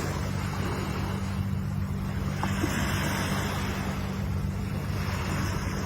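Ocean surf: a steady rush of breaking and washing waves over a deep low rumble, swelling a little about two seconds in.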